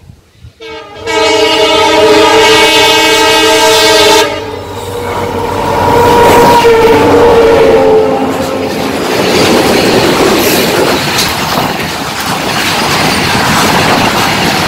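Horn of an EMD WDG4 (GT46MAC) diesel locomotive sounding in one loud blast of about three seconds, starting about a second in. The locomotive then passes close with a falling pitch, and a BOBRN freight rake of hopper wagons rolls by with a steady rumble and wheel clatter.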